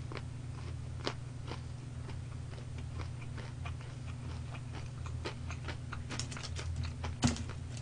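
Chewing crispy-coated boneless fried chicken close to the microphone: scattered soft crunches and wet mouth clicks, a little more frequent near the end, over a steady low hum.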